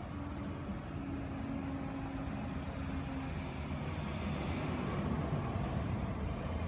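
Road traffic: a motor vehicle's engine hum with a steady low tone, growing slightly louder toward the end.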